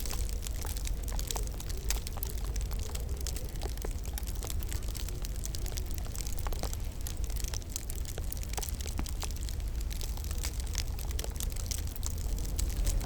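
Wood fire crackling in a fireplace, with frequent small sharp pops and snaps scattered irregularly over a steady low rumble.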